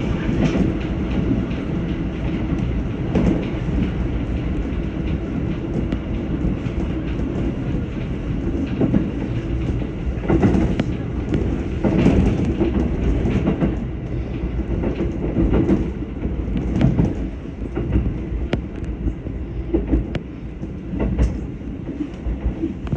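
Electric passenger train running on the line, heard from inside the front car: a steady rumble with the wheels knocking irregularly over rail joints.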